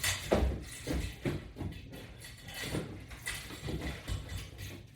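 Repeated dull thuds, roughly two a second and unevenly spaced, from a person exercising with resistance bands.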